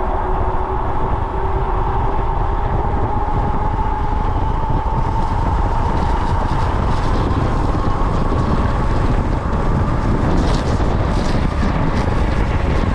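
Vehicle running down the road in strong wind: a steady low rumble and wind noise, with a whine that slowly rises in pitch. A few brief gusts of hiss come near the end.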